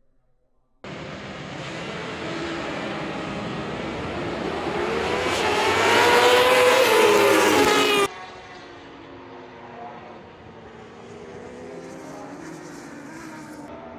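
Racing motorcycle engines at high revs, one bike's note climbing and getting louder as it comes close, loudest about six to eight seconds in. The sound cuts off suddenly, then several bikes are heard more faintly, their engine notes rising and falling.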